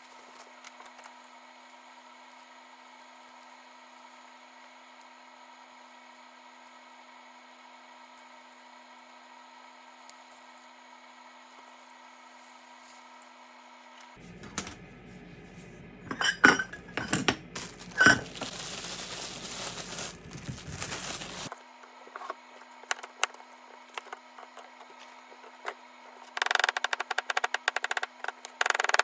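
Kitchen cooking sounds: a faint steady hum for about the first half, then sharp clinks of dishes and utensils with several seconds of hissing noise, and near the end a run of rapid, even tapping.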